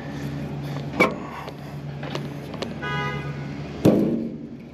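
Sheet-metal clicks and knocks from a rooftop AC unit's access panel being worked loose, the loudest a sharp clank with a short ring near the end, over a steady low machinery hum. A brief high pitched tone sounds about three seconds in.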